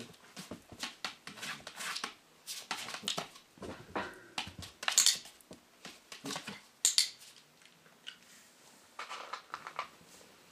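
Dogs moving about: a run of short clicks and taps with a few louder knocks about five and seven seconds in, like paws and claws on the floor and the perch.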